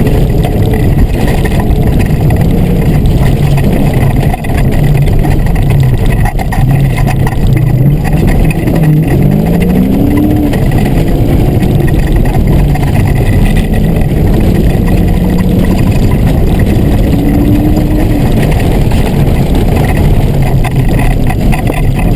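Fox Body Mustang's engine running hard under load, its pitch rising and falling with throttle and gear changes and climbing sharply twice, over a steady rush of road noise.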